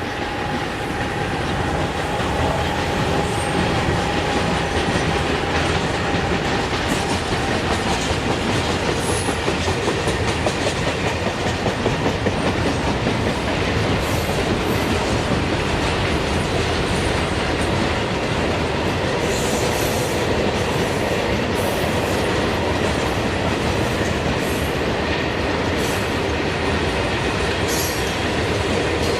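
A train running past on the rails, a steady dense rumble with wheels clattering over the track throughout.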